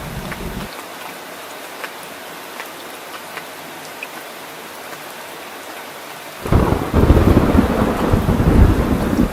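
Steady rain hiss with scattered drop ticks, and thunder. A low rumble dies away within the first second. About six and a half seconds in, a loud clap of thunder breaks in suddenly and rolls on.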